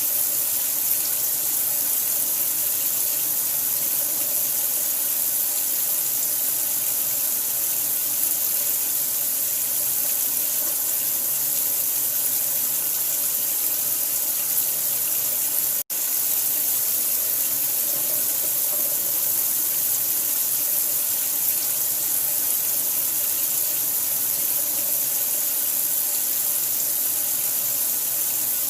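Steady hiss of running water, cutting out for an instant about halfway through.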